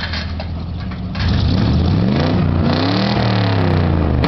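Pickup truck engine idling, then revved hard about a second in, its pitch sweeping up and wavering before it holds at high revs as the truck pulls on a tow chain.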